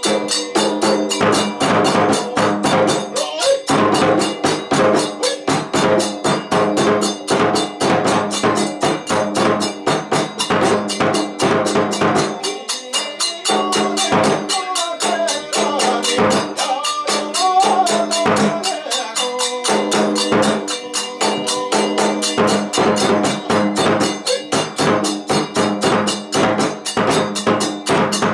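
Kagura hayashi music: fast, steady drumming and clattering percussion with held tones beneath. A wavering melody rises over it for several seconds in the middle.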